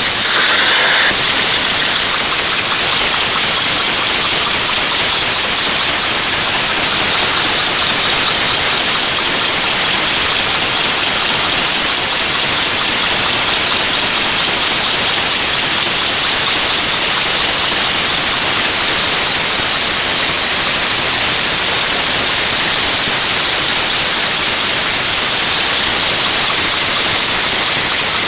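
Homemade steam engine with a 14 mm socket for its piston, running on compressed air: a loud, steady rushing hiss of air through the valve and cylinder. It is using a lot of air, and the builder means to get it running at lower pressure.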